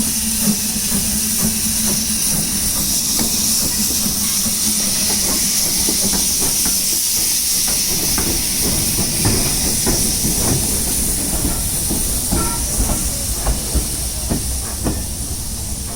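Steam locomotive hissing steadily, with irregular clanks and knocks from the train starting about halfway through.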